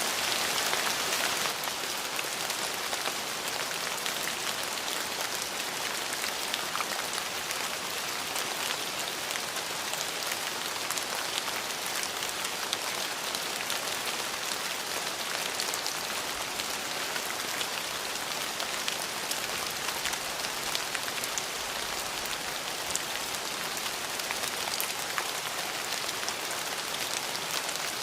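Steady rain falling on a surface: a dense, even hiss scattered with individual drop ticks.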